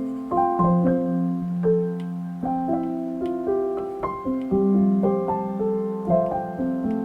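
Background music: a soft, slow piano piece, notes struck and left to ring.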